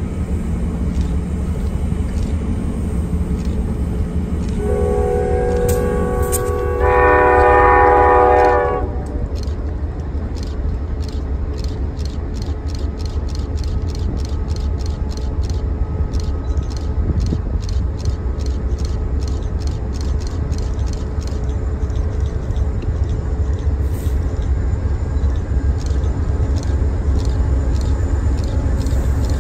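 Passing train: a steady low rumble, with its multi-note horn chord sounding from about four and a half seconds in for roughly four seconds, louder in its second blast. A run of regular wheel clicks over rail joints follows, about two to three a second.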